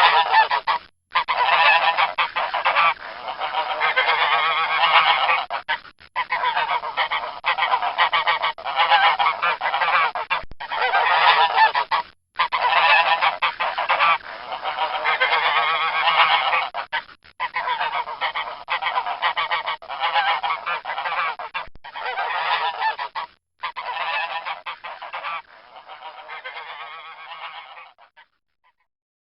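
Geese honking over and over in loud, harsh calls, in several long stretches broken by short silences; the calls grow quieter and stop shortly before the end.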